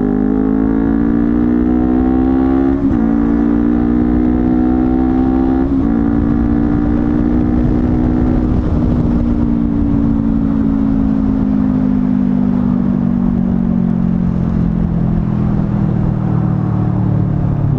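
Honda CBR250RR motorcycle with a modified exhaust running under way, its engine note rising at first with two brief breaks about three and six seconds in, as at gear changes, then holding steady and slowly falling as the throttle eases.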